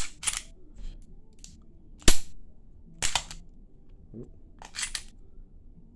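Sharp metallic clicks of a Ruger EC9s 9mm striker-fired pistol's action being worked by hand in a dry-fire function check: trigger pulls, striker strikes and slide movement. About five separate clicks, the loudest about two seconds in and a quick pair near the end.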